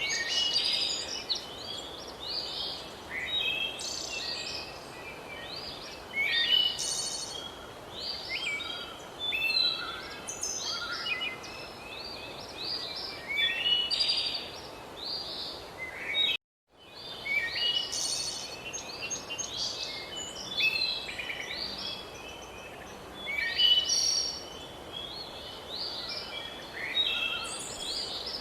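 A chorus of many songbirds chirping and singing, with overlapping short whistled phrases, over a steady background hiss. The sound cuts out completely for about half a second a little past halfway through, then fades back in.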